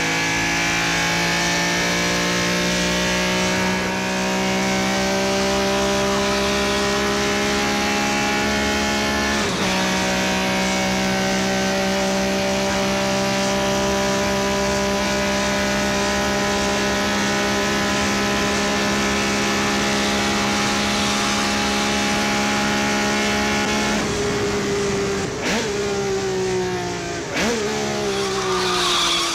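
Mazda MX-5's four-cylinder engine held at high revs, a long steady pull with a brief break about ten seconds in. Near the end the revs fall, with two quick shifts.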